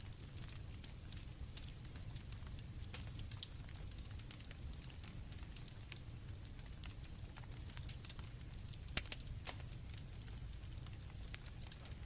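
Campfire crackling and popping at irregular intervals over a low steady rumble, with one louder crack about nine seconds in. Crickets chirp in a steady high trill behind it.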